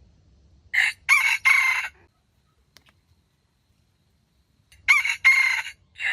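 A rooster crowing twice, about four seconds apart, each crow broken into three short parts.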